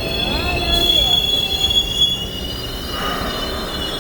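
MBTA Orange Line subway train pulling into the station, its wheels and brakes giving a high, steady squeal of several tones over a low rumble. The squeal eases after about two seconds.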